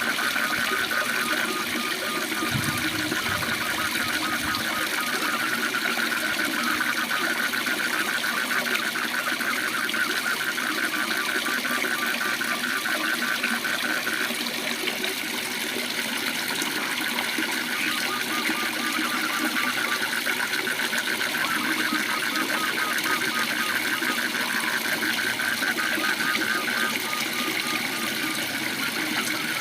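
Waterfall rushing steadily, with frogs calling over it in rapid pulsed trills that come in bouts, one voice pitched a little above another.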